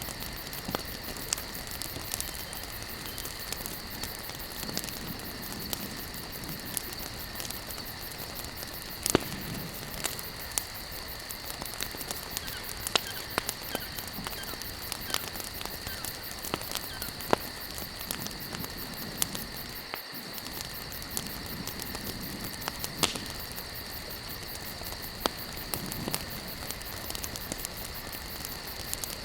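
Wood campfire crackling, with many small ticks and scattered sharper snaps over a steady hiss. A steady high insect drone, like crickets, runs underneath.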